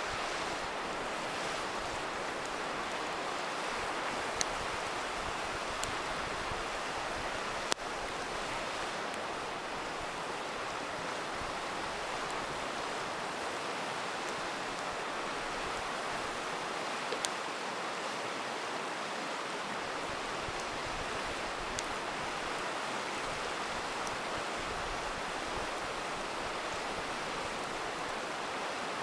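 Steady rushing of a river, with a few sharp pops from a crackling campfire scattered through it. The loudest pop comes about eight seconds in.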